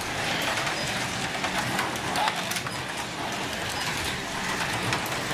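Slot cars running on a plastic track: a steady whirring hiss with scattered sharp clicks.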